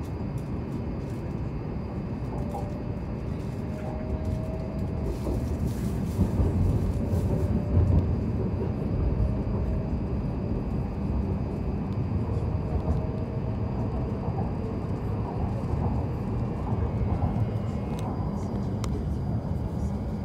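Hokuriku Shinkansen train accelerating away from the station, heard inside the passenger cabin: a steady low running rumble with a faint motor whine that climbs slightly in pitch during the first half.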